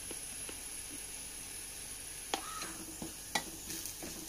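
Shallots and green chillies sizzling in coconut oil in a clay pot, while a steel spatula stirs them and knocks twice against the pot in the second half.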